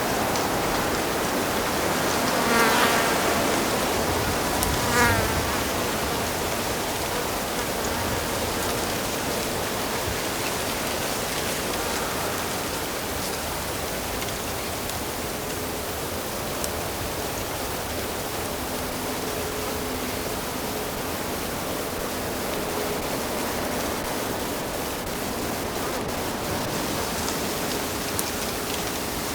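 Steady rushing of a flowing stream. A fly or similar insect buzzes close by twice in the first few seconds, its hum rising and wavering as it passes.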